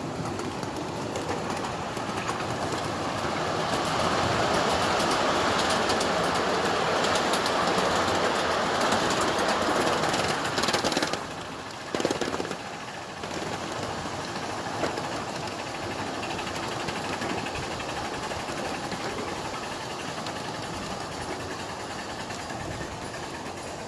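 Ridable miniature live-steam train running on its track: a steady rolling rush that swells over several seconds, drops off suddenly about eleven seconds in with one short burst just after, then goes on more quietly.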